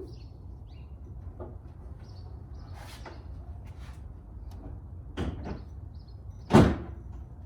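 Light handling clicks, then a door being shut: a knock about five seconds in and a louder slam a second and a half later.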